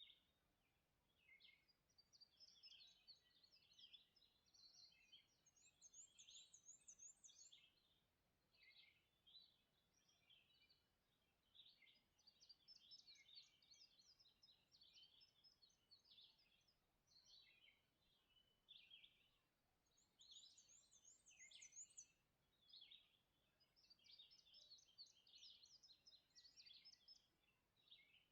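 Faint dawn birdsong from songbirds: a continuous run of short chirps and song phrases, with a rapid high trill heard twice, around six seconds in and again just past twenty seconds.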